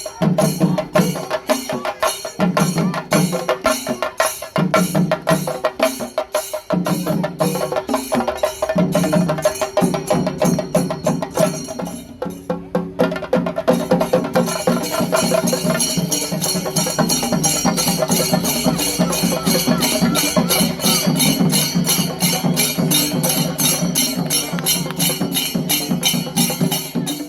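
Chenda melam: a Kerala chenda drum ensemble playing a fast, driving rhythm of rapid stick strokes. The playing drops briefly about twelve seconds in, then picks up again fuller and denser.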